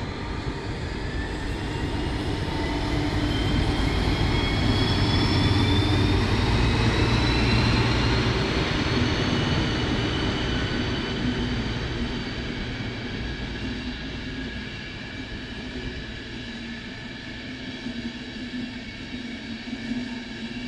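Locomotive-hauled passenger train running past on the far track: wheel rumble with a whine that rises in pitch over the first ten seconds or so. It is loudest about halfway through, then fades as the train moves off.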